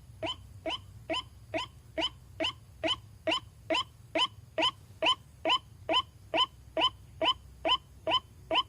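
White-breasted waterhen (ruak-ruak) calling, a lure recording: a steady, evenly spaced run of short notes, a little over two a second, each rising slightly in pitch.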